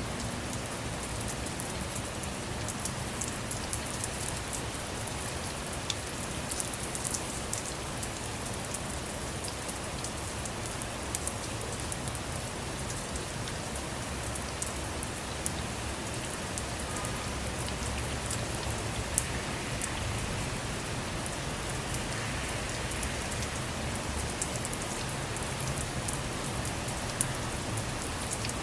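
Steady rain falling on a car, with many individual drops ticking on the surface and one sharper drop hit about two-thirds of the way through.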